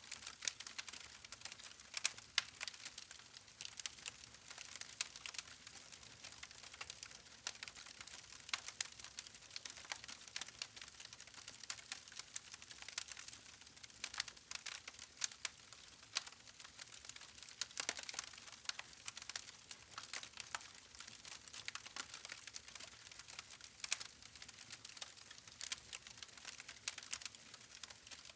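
Wood campfire crackling: a continuous run of irregular sharp snaps and pops, several a second, some louder than the rest.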